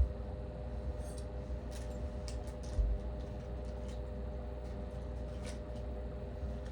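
Handling noises from assembling a lamp: scattered faint clicks and taps of small parts being fitted, with a dull thump right at the start and another about three seconds in, over a steady low hum.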